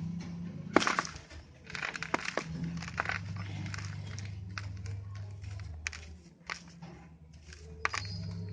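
Dry sand-cement pieces crumbling and snapping as they are broken up by hand. Sharp irregular cracks, the loudest about a second in, with gritty crumbling between them, over a steady low hum.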